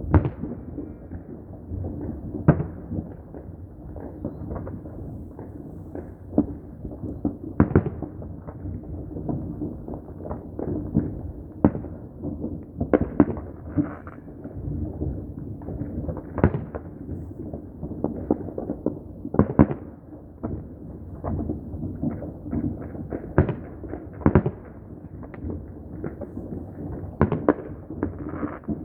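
Many fireworks and firecrackers going off at once, sharp bangs at irregular intervals, some loud and close, others faint, over a continuous rumble of more distant explosions.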